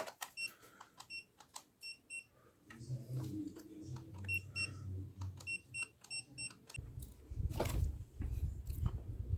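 Short, high electronic beeps, about a dozen, single and in quick pairs, from the buttons of a digital device being set while checking the USB soldering iron's temperature. There are low handling rumbles underneath and a knock near the end.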